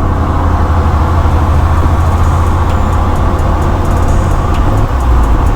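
A car engine and exhaust running steadily under way, a loud deep drone.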